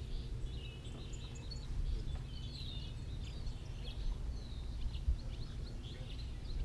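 Several small birds chirping and singing in short, quick phrases, over a steady low rumble.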